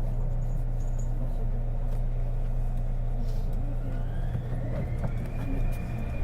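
Interior running sound of a Kobe New Transit 2020-series Port Liner, a rubber-tyred automated guideway train, under way: a steady low hum and rumble. About four seconds in, a thin electric whine rises in pitch and then holds steady.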